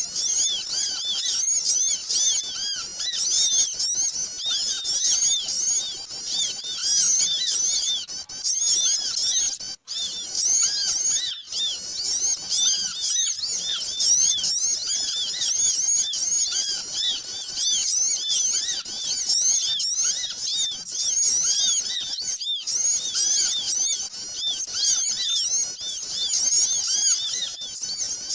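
Bird-lure recording of many small birds chirping and twittering at once, a dense, busy chatter of short high chirps used to call small birds in; it breaks off for an instant twice.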